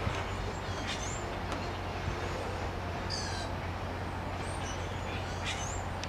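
Wild birds calling: a short run of high, quickly repeated calls about three seconds in, and a few single high chirps near the end, over a steady low hum.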